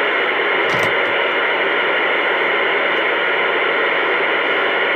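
Steady radio static hiss from a CB radio's speaker, with the squelch open and no one transmitting. It switches on abruptly just before and holds at an even level.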